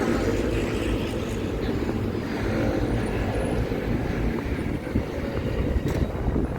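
City street traffic passing, a steady engine hum, with wind rumbling on the microphone.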